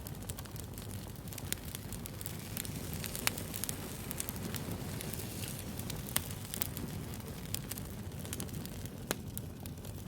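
Wood fire burning: a steady low rumble with scattered sharp crackles and pops, a few of them louder, around a third of the way in and just past the middle.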